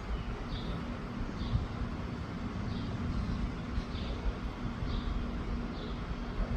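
Wind buffeting the microphone in a steady low rumble, with faint high chirps repeating about once a second.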